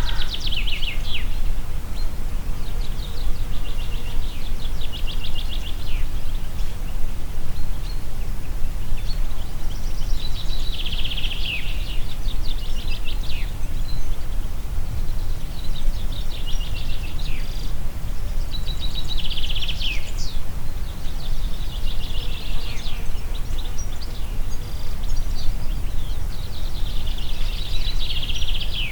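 Wind blowing through a forest as a steady low rumble, while a songbird sings short phrases of rapid trilled notes every few seconds, several of them ending in a quick falling note.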